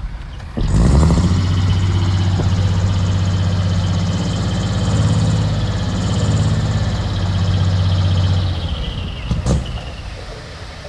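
Heavy diesel engine of an earthmoving machine coming up sharply about half a second in, running hard and steady, then easing off after about eight seconds. A single knock follows near the end.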